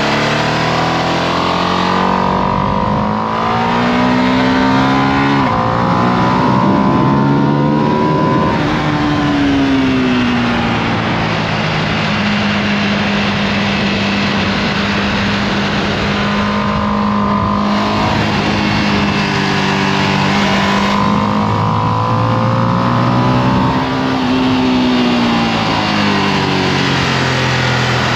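Ducati Panigale V2S V-twin on its stock exhaust, heard onboard at track speed over steady wind rush. The revs climb through two quick upshifts in the first several seconds, drop away, hold steady for about ten seconds, then rise and fall again.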